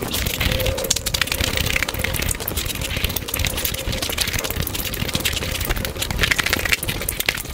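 Close-miked, sped-up mukbang eating sounds: a man chewing and smacking mouthfuls of chicken biryani eaten by hand, a dense run of wet clicks and crackles.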